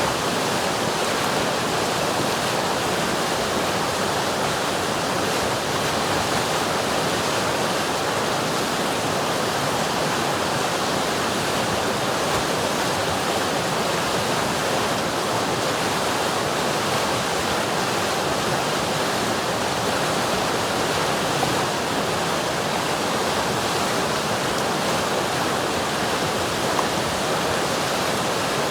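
River water rushing and babbling in a steady, even flow with no breaks or changes.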